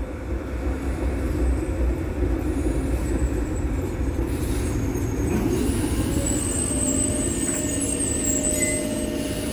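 Tyne and Wear Metrocar pulling into the station: a steady low rumble of wheels on rails with a motor hum, and a high thin squeal from about six seconds in as the train slows.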